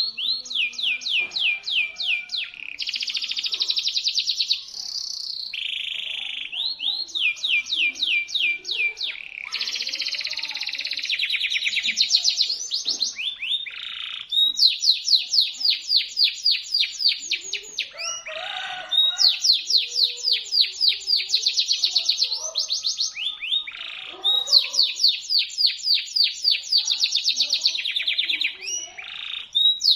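Domestic canary singing continuously in long, high trills: runs of rapidly repeated notes, some slower and some fast and buzzing, linked together with only brief breaks.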